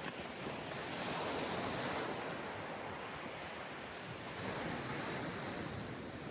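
Sea waves breaking and washing up on a sandy beach, swelling about a second in and again near the end, with some wind on the microphone.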